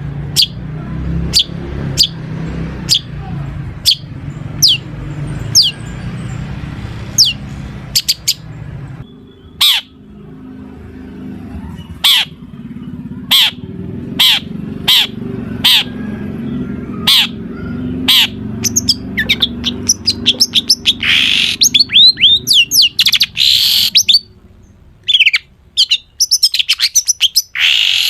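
Long-tailed shrike (cendet) singing a mimicry-filled song: sharp, high, downward-sliding call notes about one a second, breaking into a fast run of chattering and harsher notes over the last ten seconds.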